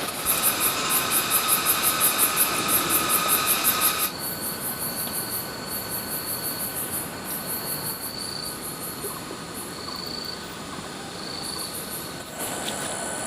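Insects calling: a loud, high, pulsing buzz that stops suddenly about four seconds in, followed by a quieter high trill that comes and goes.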